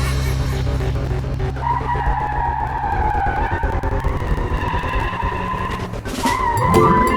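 Race car engine running with a low steady hum, then a long wavering tire squeal starting about a second and a half in.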